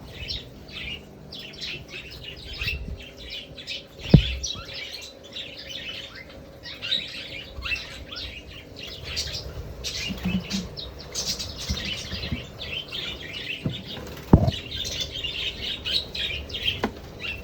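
Budgerigars chirping and chattering continuously in quick high notes, with a sharp knock about four seconds in and another about fourteen seconds in.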